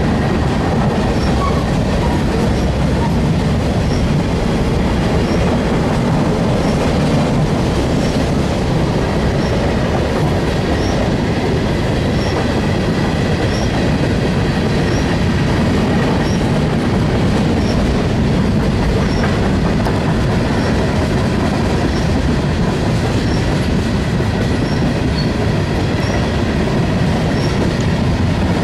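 Freight train of covered hoppers, boxcars and tank cars rolling steadily past: a continuous rumble of steel wheels on rail with clickety-clack over the rail joints and faint wheel squeal.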